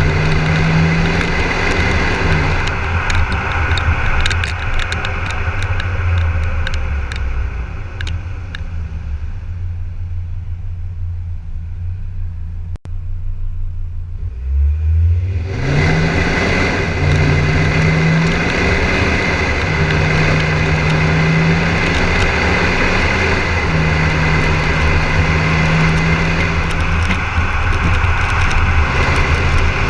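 Volvo XC60 D5 diesel engine heard through a custom exhaust, accelerating in repeated rising pulls that drop back and climb again, as through the gears. Around the middle it falls quieter and duller for several seconds before pulling hard again.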